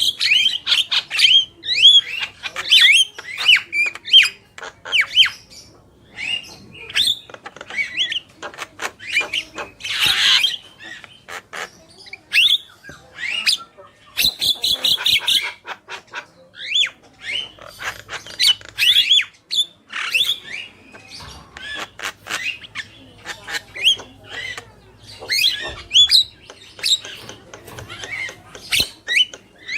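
Javan mynas, a male and a female, calling: quick runs of short whistled notes, clicks and chatter, broken by harsh squawks, the loudest and harshest about ten seconds in.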